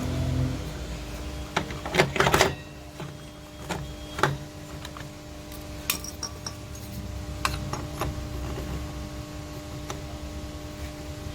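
Workshop clatter: scattered metal clicks and knocks of tools and parts being handled, loudest in a quick cluster about two seconds in, over a steady hum. A motorcycle engine that was running fades out within the first second.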